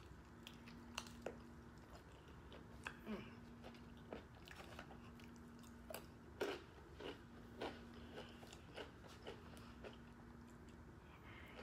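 A person biting and chewing a taco close to the microphone: faint, irregular small clicks and crackles of chewing.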